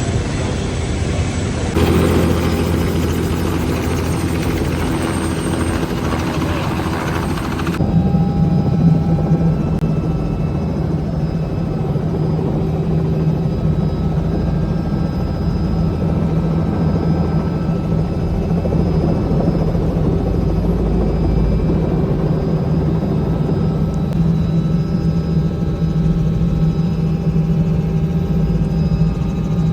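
Helicopter running steadily overhead, a continuous rotor and turbine sound with a fast even beat; the sound shifts abruptly about two seconds in and again around eight seconds.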